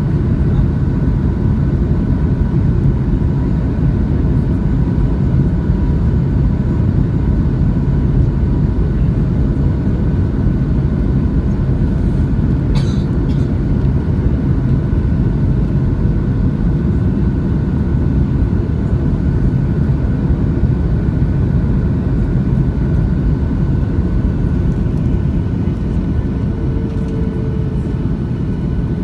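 Steady cabin noise of a Boeing 737-600 heard from inside the cabin: the deep rumble of its CFM56-7B engines and airflow, with a faint steady whine over it.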